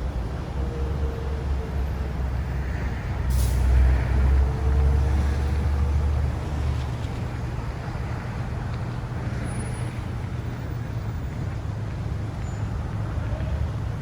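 A heavy vehicle's engine rumbling low, swelling to its loudest around four seconds in and fading after about six seconds, with a short hiss just after three seconds; a softer steady traffic hum remains.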